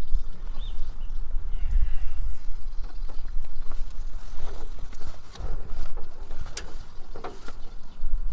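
Outdoor ambience: a steady low rumble on the microphone with scattered light clicks and knocks, and a short bird chirp about half a second in.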